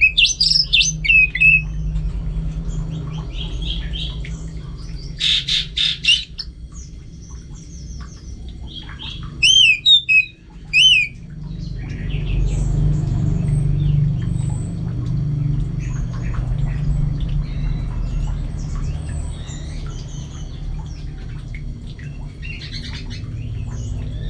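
Orange-headed thrush singing in short bursts of sharp, arching chirps: three loud phrases in the first eleven seconds, then fainter, scattered notes. A steady low rumble runs underneath.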